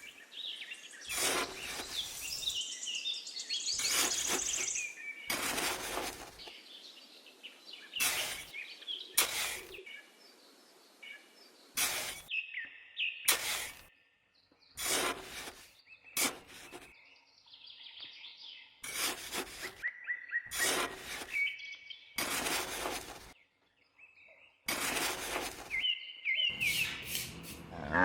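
Birds chirping, cut by a string of short, sharp noises about once a second that are louder than the birdsong.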